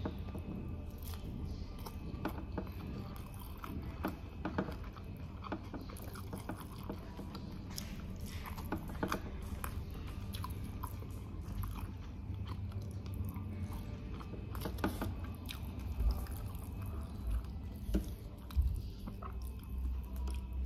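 Close-miked eating sounds: a person biting and chewing crunchy food, with irregular crisp clicks and crunches between wetter chewing. A steady low hum runs underneath.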